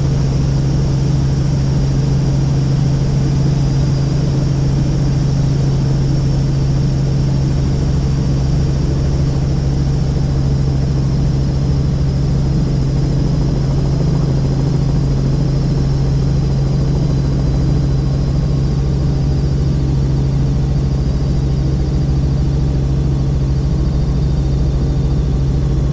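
Helicopter in steady flight, heard from inside the cabin: a loud, unchanging drone of rotor and engine with a strong low hum and a faint high whine above it.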